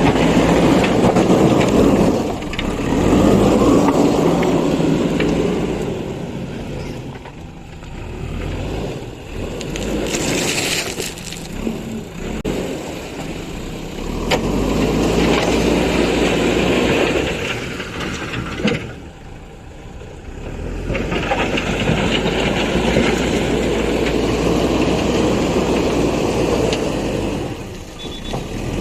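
Heavy diesel engine of construction machinery running under load, its sound swelling and easing several times, with a brief drop about two-thirds of the way through.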